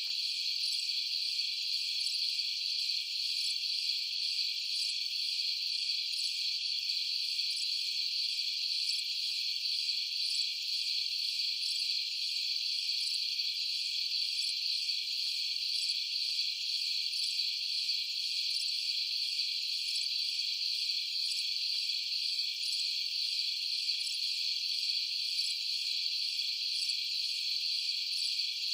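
Chorus of night insects chirring steadily: a dense, continuous high-pitched trill with no pauses.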